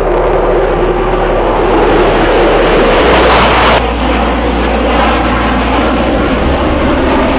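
Jet noise from Blue Angels F/A-18 Super Hornets passing overhead. It grows to its loudest about three and a half seconds in, drops off abruptly, then carries on more quietly.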